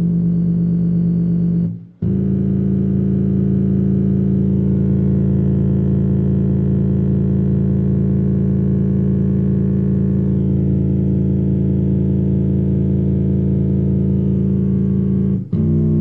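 Portable Bluetooth speaker playing long, held, distorted bass synth notes for a bass-radiator test. There is a brief drop about two seconds in and another near the end, where the note changes.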